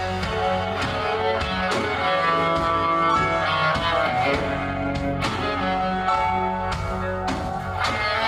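Live band music, guitar to the fore over bass and drums.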